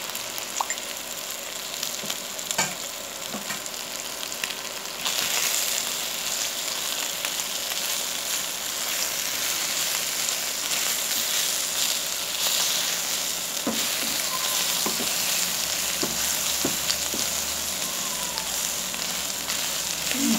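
Chicken adobo sizzling in a pan with its sauce cooked off, frying in its own rendered fat, stirred with a wooden spatula. The sizzle grows louder about five seconds in, and the spatula knocks against the pan a few times.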